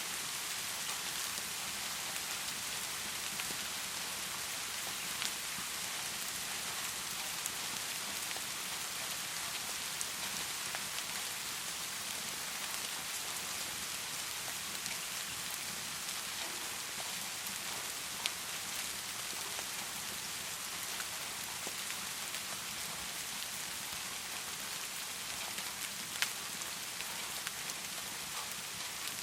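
Heavy rain falling steadily, an even hiss, with a few isolated sharp ticks about 5, 18 and 26 seconds in.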